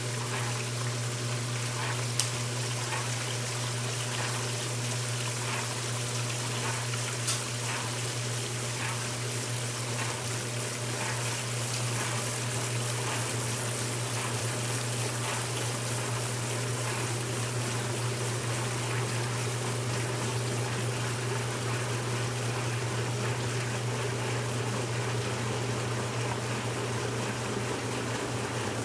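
1969 Westinghouse washing machine running late in its normal cycle: a steady motor hum with water trickling and running through the machine.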